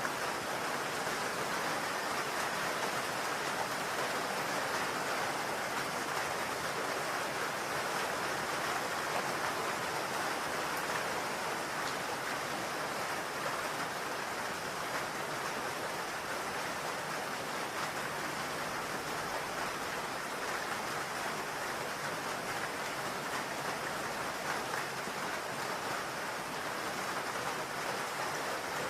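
Steady rain hitting a roof: a dense, even patter.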